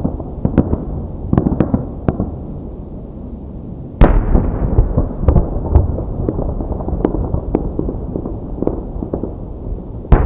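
Aerial fireworks display: a steady low rumble of booming shells with many sharp crackles, a very loud boom about four seconds in, and another near the end.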